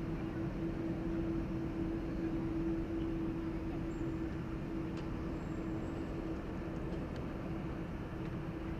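Boeing 747-8F jet engines, General Electric GEnx-2B turbofans, running steadily with a constant hum and a low rumble.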